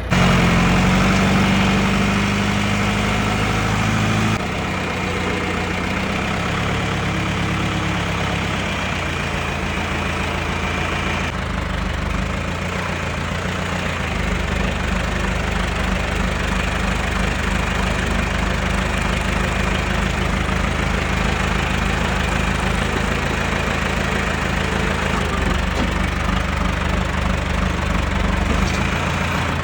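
Tractor engine running steadily, its engine note shifting a few times, about four seconds in and again around fourteen seconds.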